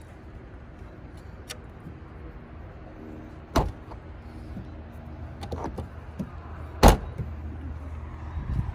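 Two car door slams over a steady low rumble, a smaller one about three and a half seconds in and a louder one nearly seven seconds in, with a few light clicks between.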